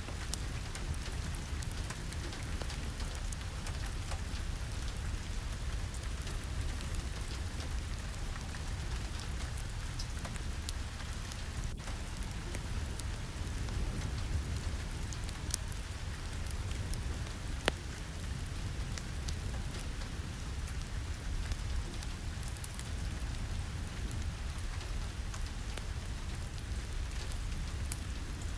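Steady rain with a low rumble underneath and scattered small ticks. One sharper click comes about two-thirds of the way through.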